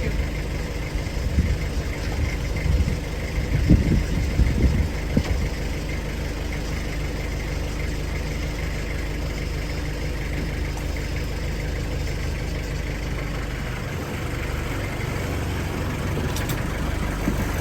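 Tractor engine running steadily at idle, with a few knocks in the first five seconds.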